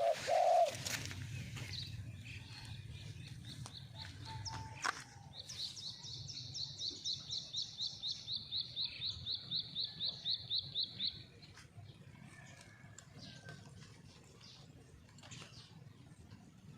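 Small birds calling: a fast, even run of high chirps, about four a second, lasting some six seconds and stopping suddenly, after a fainter chirping run, with a brief lower call at the very start and a steady low rumble underneath.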